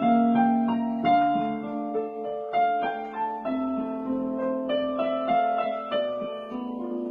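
Piano playing a slow piece, notes and chords struck one after another and left to ring.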